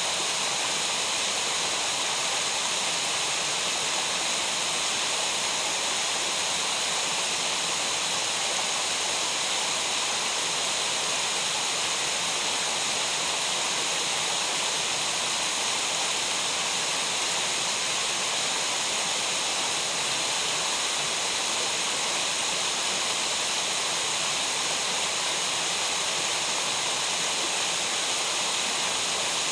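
Water in a mountain gorge rushing steadily, an even unbroken hiss with no change.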